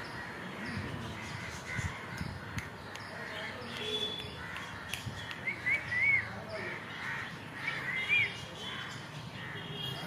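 Birds calling: a few short rising-and-falling calls about halfway through and again near the end, over a steady faint background noise.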